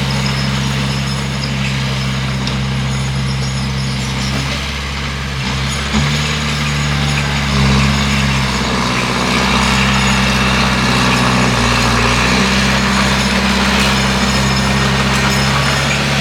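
Bulldozer's diesel engine running steadily, its low note stepping up and down a few times as it works the ground.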